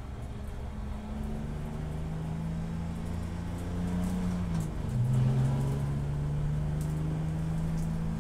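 Race car engine pulling under acceleration: its pitch climbs for a few seconds, drops at an upshift about four and a half seconds in, then holds nearly steady.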